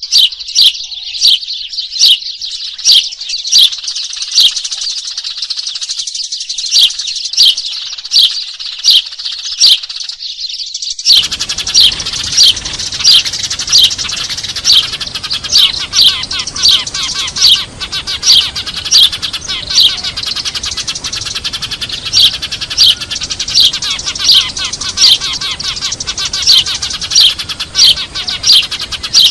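A noisy flock of Eurasian tree sparrows chirping, a lure call for trapping: sharp, loud chirps about twice a second over dense, continuous chatter. About a third of the way in, the background becomes denser and noisier, as at a join in the recording.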